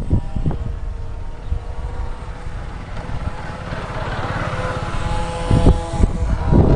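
Radio-controlled model Cessna's motor and propeller buzzing with a steady pitch during a low pass. The sound swells in the middle and eases off again, while wind buffets the microphone at the start and near the end.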